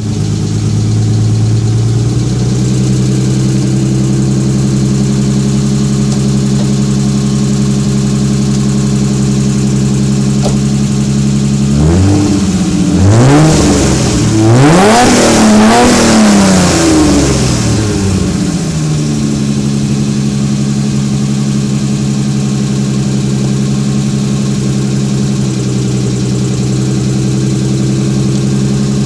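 1989 BMW 323i's 2.3-litre straight-six, fitted with a 284-degree camshaft, stainless headers, no catalytic converter and a 2.25-inch straight-through exhaust with a sport muffler, idling steadily. About twelve seconds in it is revved in a few quick blips and then one longer rev, before dropping back to a steady idle.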